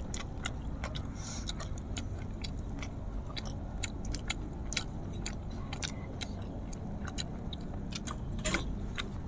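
Close-miked eating sounds: scattered crunches and mouth clicks from chewing fried chicken, with a stronger crunchy bite near the end, over a steady low rumble. A plastic sauce sachet crinkles about a second in.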